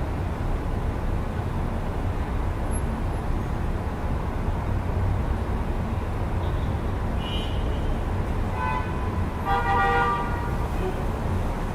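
Steady low rumble of city street traffic, with car horns honking: a faint toot about seven seconds in, then two louder horn blasts near the end, the second the loudest.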